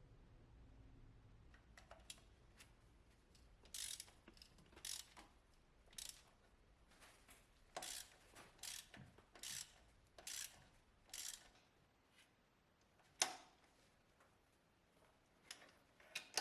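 A hand ratchet working in short strokes, about one burst of clicks a second, then a single sharper click about two-thirds of the way in and a few more near the end.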